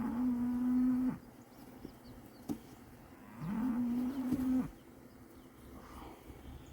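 A cow mooing twice, each call about a second long, sliding up at the start and then holding one pitch.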